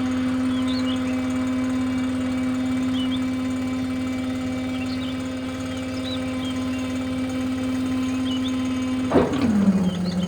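Small motor of a DIY model tractor running with a steady hum. Near the end it drops suddenly to a lower pitch with a brief clatter, as if it has come under load.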